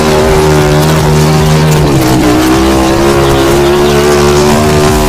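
Motorcycle engine running at steady revs, its pitch dipping briefly about two seconds in and then holding steady again.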